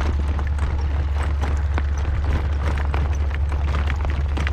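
Hoofbeats of a horse in harness, irregular clip-clops, over a steady low wind rumble on the microphone.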